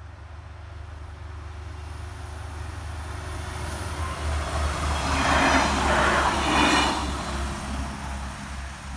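Two-car NSB Class 93 diesel multiple unit passing at speed, its engine and wheels on the rails growing steadily louder, loudest between about four and seven seconds in as it goes by, then fading.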